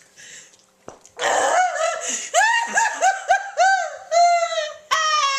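A girl's high-pitched, squeaky wheezing laugh. It starts about a second in as a run of short rising-and-falling squeals and ends in a longer held squeal.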